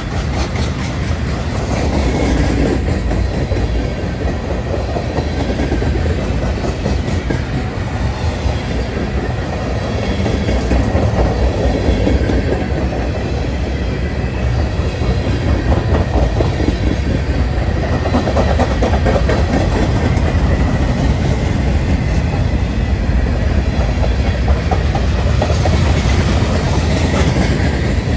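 Freight train of tank cars and covered hopper cars rolling past, steel wheels clicking over the rail joints in a rhythmic clickety-clack over a loud, steady rumble.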